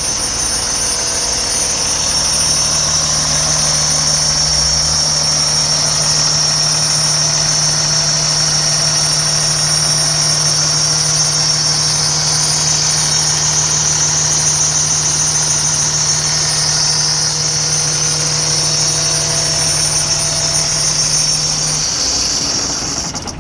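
Cummins ISX inline-six diesel in a Kenworth T680 truck idling steadily, with a high whine over the low engine hum. The sound cuts off abruptly near the end.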